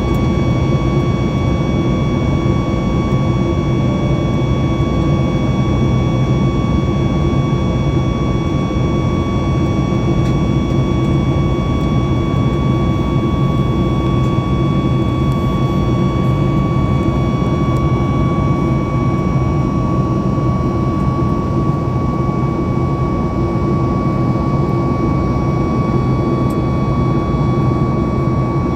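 Boeing 737 MAX 8 cabin noise during the climb: the steady roar of its CFM LEAP-1B engines and the air rushing past the fuselage, with a few steady high tones running through it.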